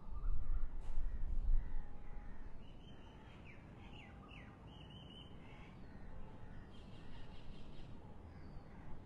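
Birds calling, several short calls between about three and eight seconds in, over a low rumble during the first two seconds.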